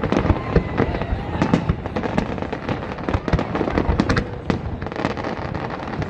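Fireworks display going off: a dense, irregular barrage of bangs and crackles, several a second.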